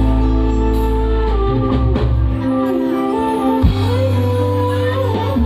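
Loud music over a large sound horeg sound system: a melody of held, stepping notes over a heavy, booming bass line.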